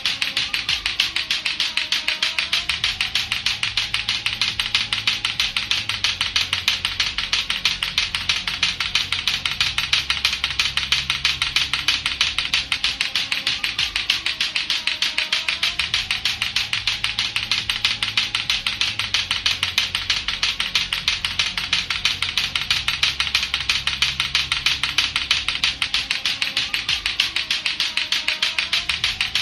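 Latto-latto clackers, two hard plastic balls on a string knocking together in a rapid, steady clacking that never lets up.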